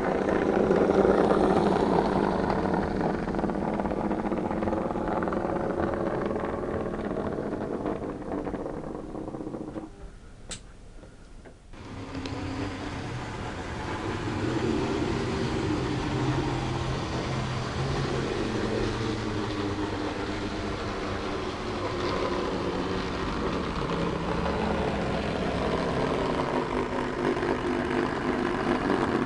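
OO gauge model diesel locomotives running on the layout, making a steady engine-like drone. It drops away briefly about ten seconds in and then resumes.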